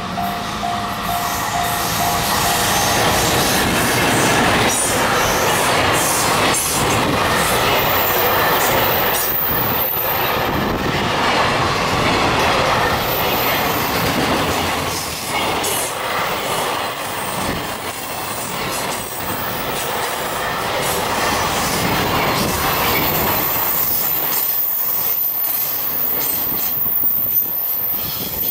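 Freight train hauled by a JR Freight EF210 electric locomotive running past close by: a loud, steady rumble of steel wheels on rail with repeated clacks over the rail joints as the container wagons go by. A thin high wheel squeal comes and goes. A pulsing tone stops about two seconds in.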